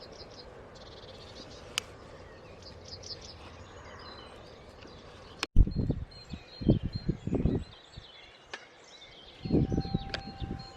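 Small birds chirping over a quiet outdoor background. About halfway through, after an abrupt cut, a series of irregular low thuds and rumbles takes over as the loudest sound.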